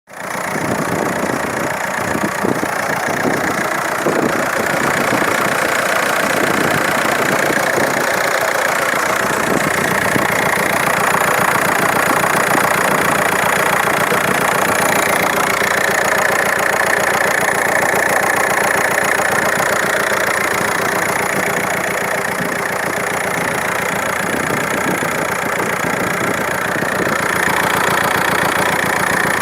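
Audi A4 B6 TDI diesel engine running steadily at idle with a fast, even ticking clatter, the strange noise the owner is trying to identify.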